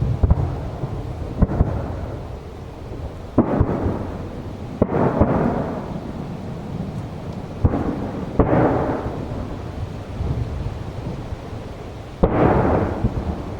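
Aerial firework shells bursting: about seven sharp booms a second or more apart, each trailing off in a rumble that fades over a second or two.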